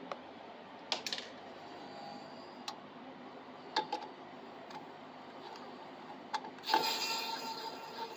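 Scattered light clicks and knocks of small hard parts being handled during 3D printer assembly, with a louder knock near the end followed by a short spell of rustling handling noise.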